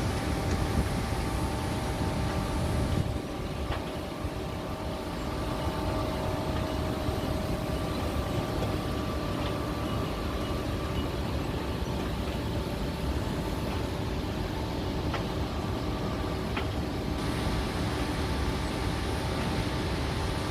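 A heavy vehicle's engine running steadily, with a few faint knocks.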